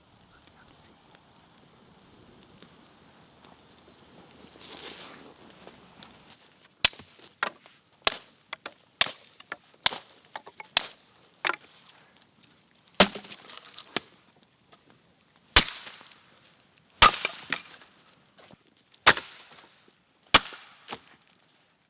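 Wood being chopped: after a quiet start, a series of sharp blade strikes into wood begins about a third of the way in, coming irregularly at roughly one a second.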